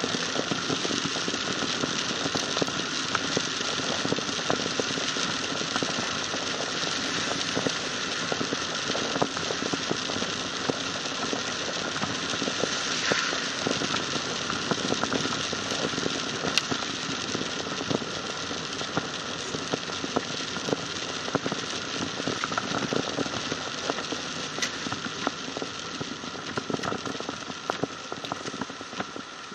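Heavy rain pattering on a car's roof and windscreen, heard from inside the cabin: a dense, steady crackle of drops.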